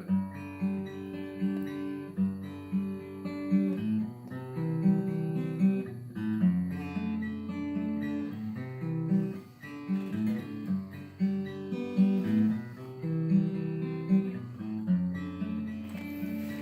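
Acoustic guitar playing an instrumental passage of strummed and picked chords in a steady rhythm, with no voice.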